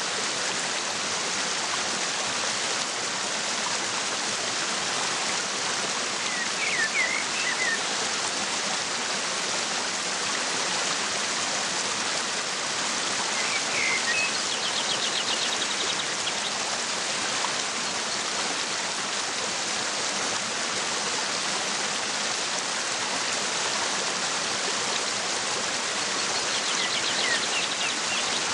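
Steady rush of a waterfall, with a few short bird chirps about seven and fourteen seconds in, and a fast, high trill near the middle and again near the end.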